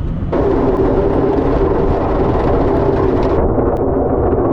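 Mack plow truck running, a steady low rumble under a loud rushing noise that comes on suddenly about a third of a second in and turns duller after about three seconds.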